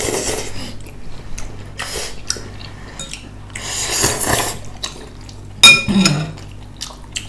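Utensils clinking against dishes, mixed with wet liquid sounds from hotpot eating. There are several short noisy bursts, and a sharp click about five and a half seconds in is the loudest sound.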